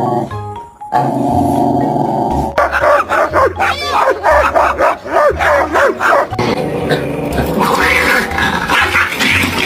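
A dog's short yips and whines in quick succession, each cry bending up and down in pitch, starting about two and a half seconds in.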